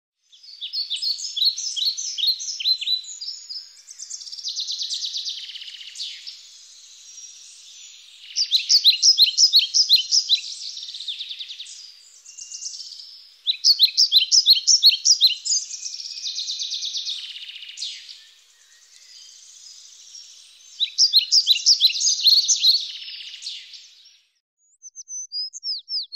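A songbird singing four separate phrases of rapid, repeated high notes, a few seconds apart, with a couple of short high calls near the end.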